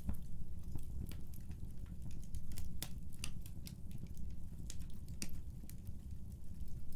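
Wood fire burning with a low, steady rumble, and irregular sharp pops and crackles several times a second.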